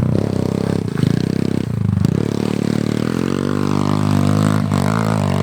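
Pit bike engine running hard, its pitch dipping and rising as the throttle is worked, with short breaks about one and two seconds in.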